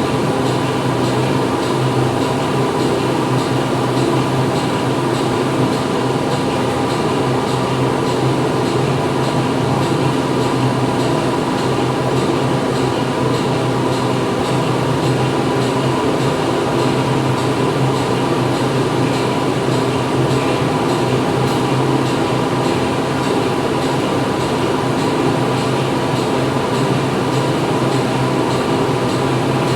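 Steady factory floor machinery noise: a constant low hum with a dense, unchanging mechanical drone and a few steady whining tones above it.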